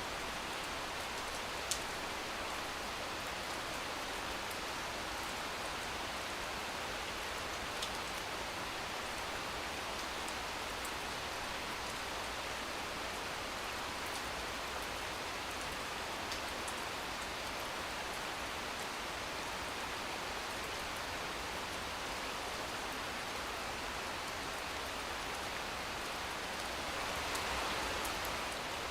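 Steady rain falling, an even hiss with a few sharp ticks scattered through it. It swells slightly near the end.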